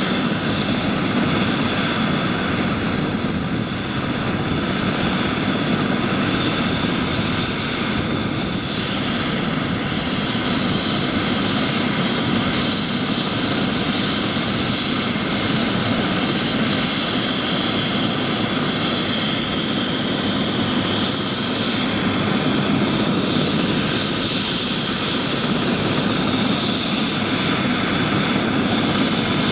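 Bell 407 helicopter running steadily: its turboshaft engine and rotor give an even rushing sound with a thin, steady high-pitched turbine whine over it.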